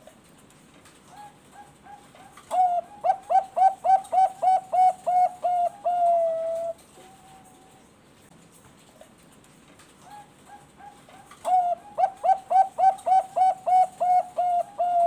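Zebra dove (Bangkok-bred perkutut) singing two full song phrases. Each opens with a few soft notes, then runs into about ten quick, ringing coos and ends on a longer drawn-out note.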